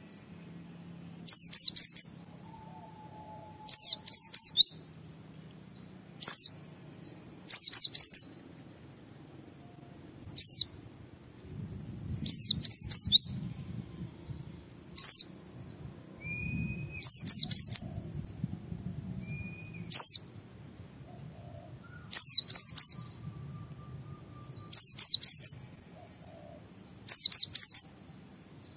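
White-eye (pleci) singing: short, high bursts of rapid chirps, repeated about every two seconds. This is the full 'ngalas' song that keepers play to draw other white-eyes into singing.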